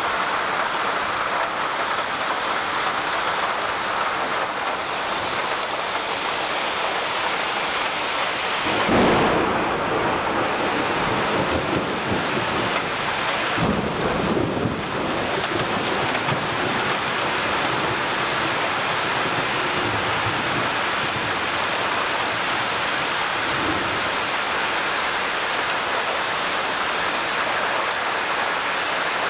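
Steady heavy rain falling, with two low rumbles of thunder about a third of the way in and again a few seconds later, the first the louder.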